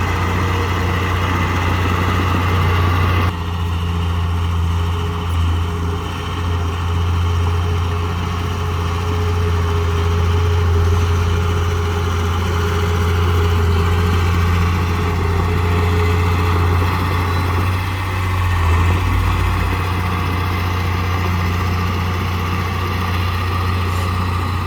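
Heavy diesel engine of earthmoving machinery running steadily with a deep, constant hum. The sound shifts abruptly about three seconds in.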